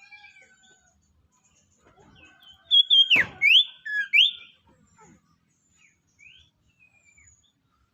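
Sirtu songbird calling: a loud burst of clear whistled notes about three seconds in, one sliding steeply down and several quick upward-sweeping notes, with faint high chirps scattered around them.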